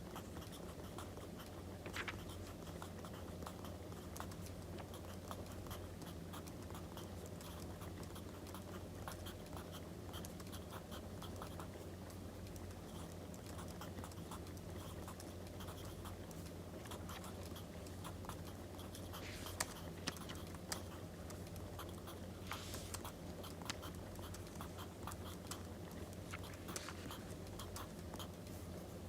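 Crackling wood fire: many small pops and crackles over a steady low rumble. A few louder paper rustles come about two-thirds of the way through.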